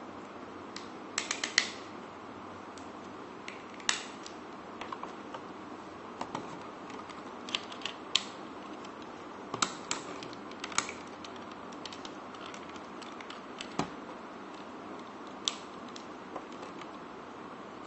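Hard plastic parts of a transformable toy mech being handled and snapped into place: scattered sharp clicks and snaps, a cluster of them about a second in and single ones every few seconds after, over a steady low hiss.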